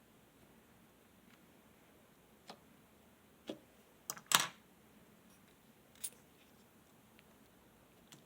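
A handful of short, scattered light clicks and taps over a quiet room, the loudest a quick double click about four seconds in.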